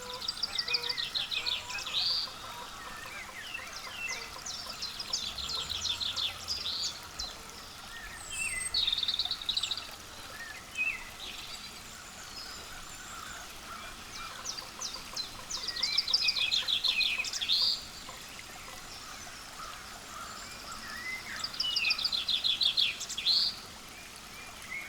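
Small songbirds singing outdoors: a rapid run of high notes, ending in an upward note, repeats about five times, with short chirps scattered between.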